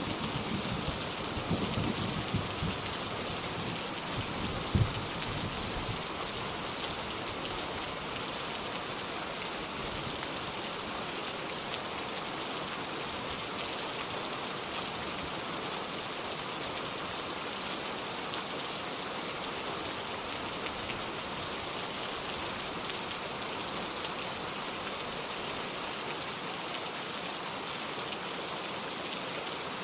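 Steady rain falling. In the first few seconds the tail of a low thunder rumble fades out, with one short low thud about five seconds in.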